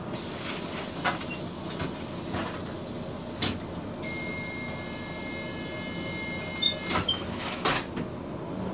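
Inside a bus cabin: a steady rumble, a sharp clunk about a second and a half in, then a steady high tone held for about three seconds, followed by a few knocks.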